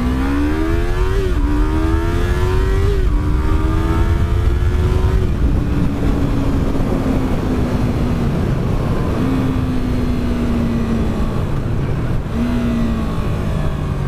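Yamaha R3's 321 cc parallel-twin engine accelerating hard: the pitch climbs, drops at an upshift about a second in and again about three seconds in, climbs once more, then settles and slowly falls as the bike cruises. Heavy wind rumble on the helmet microphone runs under it.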